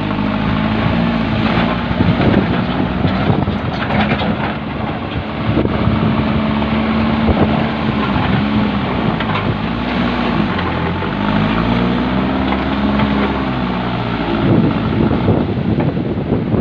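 JCB backhoe loader's diesel engine running, its pitch rising and falling several times as it is revved up and down, over a constant rushing noise.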